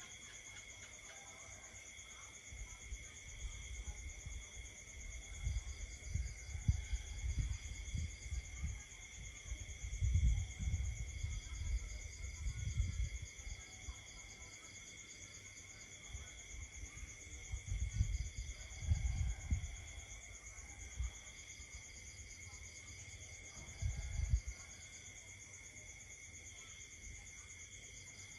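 Night insect chorus: several insects trill steadily at different pitches, one of them pulsing. Irregular bursts of low rumble come and go beneath it, loudest from a few seconds in until about halfway, again later, and once more briefly.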